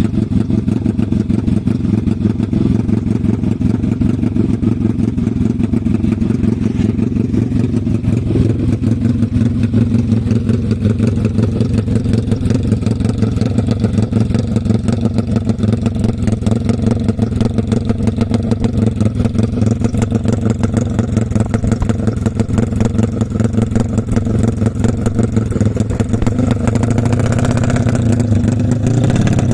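350cc motorcycle engine running through a Herex FFA aftermarket exhaust, idling with a rapid, even beat, and revving up slightly near the end.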